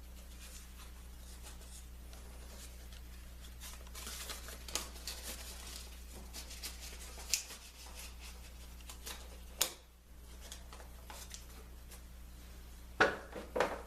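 Hands at work in a woodworking shop: scattered light clicks and rustles, with a few sharper knocks, two of them close together near the end, over a steady low electrical hum.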